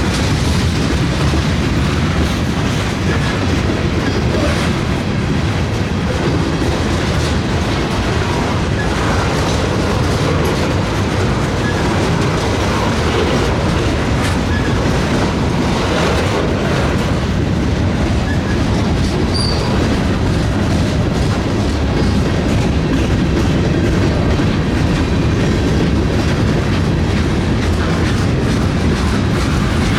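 A train's cars rolling past, the wheels clicking over the rail joints in a steady, loud rumble.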